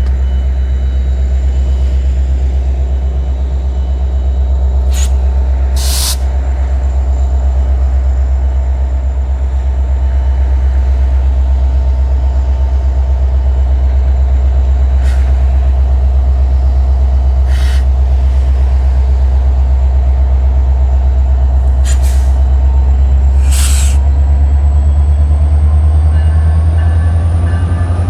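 Metra commuter train's diesel locomotive running at the platform with a steady low drone, broken by six short hisses of air from the brakes. Near the end a whine starts rising in pitch as the train begins to move off.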